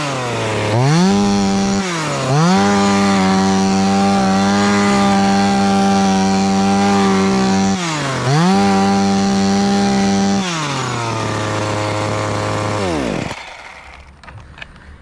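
Chainsaw at full throttle cutting wood, dropping back to idle and revving up again three times. It then idles and is shut off about thirteen seconds in, its pitch sliding down as the engine stops.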